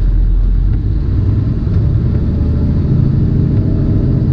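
Semi truck's diesel engine running with a steady low rumble as the rig drives; near the end an engine tone comes through more clearly as it pulls.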